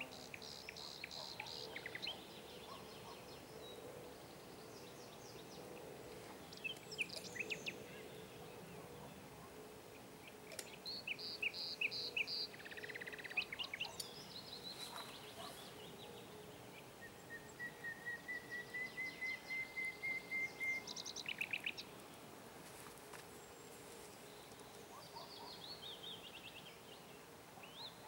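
Several songbirds singing and calling in turn, short chirped phrases with one long, slightly rising whistled note in the middle. A few sharp clicks sound in between.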